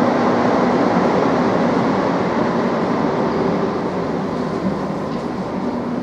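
Madrid Metro Serie 2000A train running in the station with a steady rumble and a faint motor hum, the noise easing off in the second half as it pulls away.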